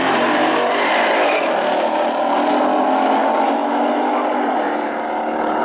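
Two classic muscle cars' engines at full throttle, launching off the line and running side by side down the drag strip, their sound easing slightly near the end as they pull away.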